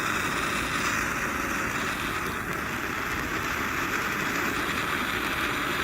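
Winda Bad Cactus ground fountain firework spraying sparks with a steady hiss, with no crackles or bangs yet.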